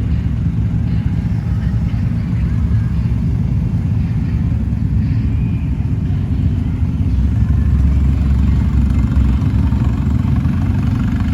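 Car engine running steadily at low revs, a deep rumble that grows louder for a couple of seconds about seven seconds in.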